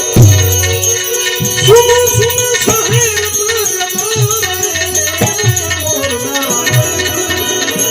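Gujarati devotional folk music (bhajan-santvani): a hand drum keeps a steady beat under jingling rattle-type percussion and sustained drone tones. From about two seconds in, a wavering melodic line with vibrato comes in over the accompaniment.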